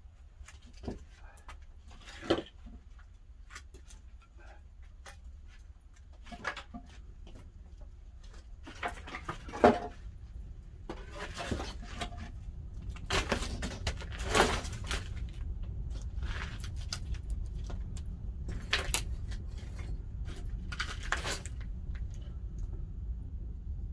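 Pine firewood crackling and popping as it burns in a wood-fired pottery kiln, with irregular sharp cracks, a few of them loud, over a low rumble that grows slowly louder.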